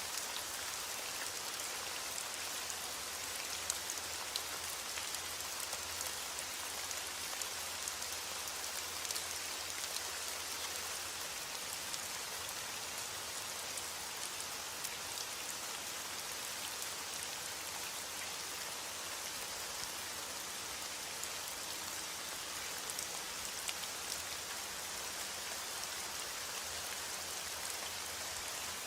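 Steady heavy rain falling and pattering on a surface, a dense even hiss with many small drop ticks.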